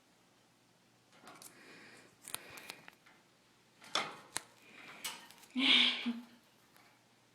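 Cockatiel moving about, with a few light, sharp clicks and taps and a short louder sound a little before the end.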